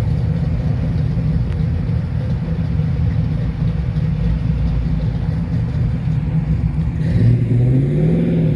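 Car engines rumbling at low speed as cars roll in, with one engine revving up about seven seconds in and dropping back to a steady note.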